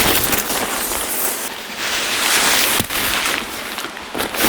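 Tarp fabric rustling as it is handled, with a louder stretch of rustling and a sharp click about three seconds in.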